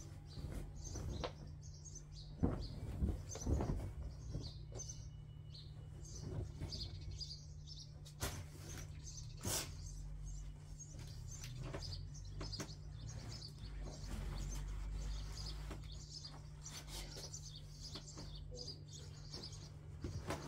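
Small birds chirping repeatedly in short, high calls, with a few knocks and bumps in between over a steady low hum.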